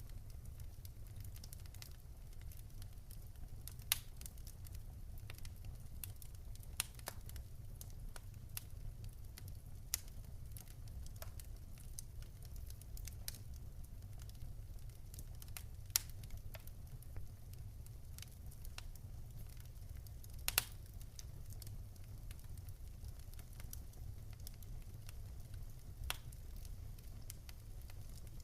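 Wood fire burning in a fireplace: a steady low rumble with constant small crackles and occasional sharp, louder pops from the burning logs, the loudest about 16 and 20 seconds in.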